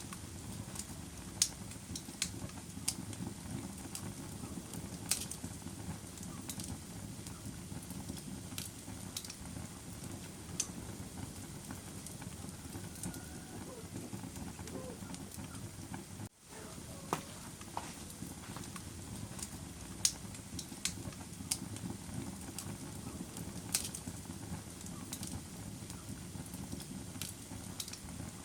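Wood fire burning in a fireplace: a steady low rush with irregular sharp crackles and pops. The sound cuts out for an instant about halfway through.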